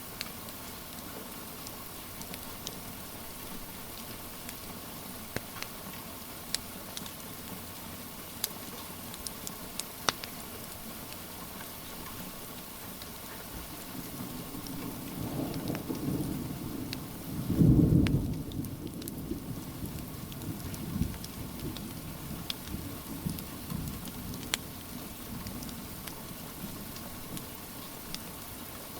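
Steady rain with scattered sharp pops from a crackling wood fire. Midway a low thunder rumble builds, peaks in a heavy roll, and fades away over several seconds.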